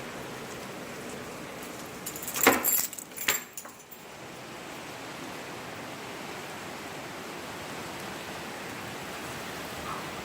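A door being locked: a quick run of metallic clicks and rattles of the lock and keys a little over two seconds in, then a few more about a second later. Steady rain noise runs underneath and carries on after.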